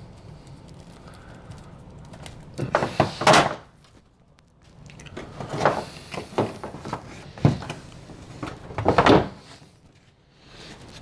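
Several bouts of knocking and rubbing, the loudest near three and nine seconds in, as cables are handled and fed along a wooden cabinet chase.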